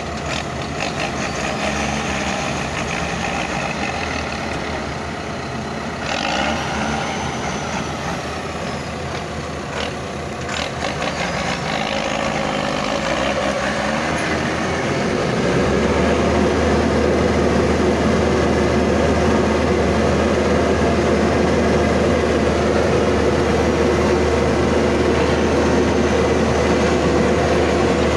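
Leyland truck's engine working to drive the truck out of mud, its revs rising and falling. A little past halfway it climbs to a louder, steady drone and holds there.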